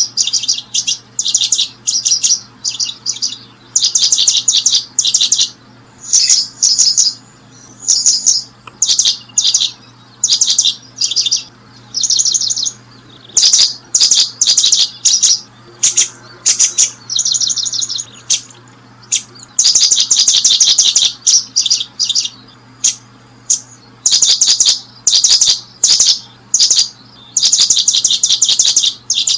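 Small birds chirping in rapid, high-pitched trilled bursts that follow one another almost continuously, with only short gaps.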